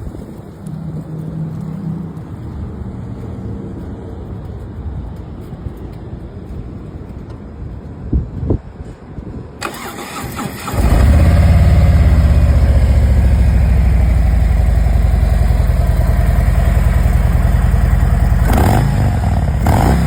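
Harley-Davidson Street Glide Special's V-twin engine starts about eleven seconds in and settles into a loud, steady idle, with a couple of quick throttle blips near the end. Before that, wind noise on the microphone and a few knocks.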